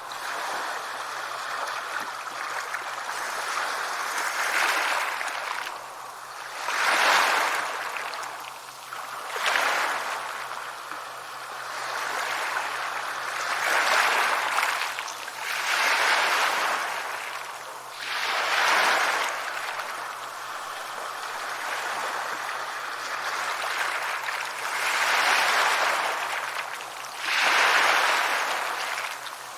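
Sea waves breaking and washing up the shore, one swell after another about every two to three seconds.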